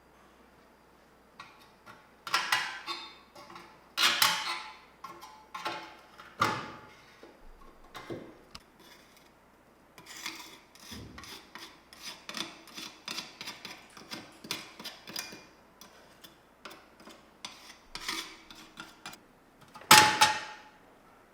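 Hand work on small parts: irregular clicks, knocks and rubbing or scraping strokes, with one louder sharp clank near the end.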